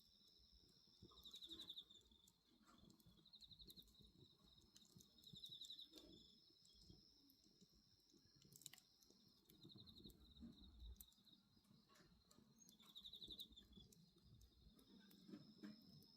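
Faint crackling of a wood bonfire, with scattered clicks and an occasional sharper pop, under night insects. The insects give a steady high trill that drops out partway through and comes back near the end, plus short pulsed chirps every two seconds or so.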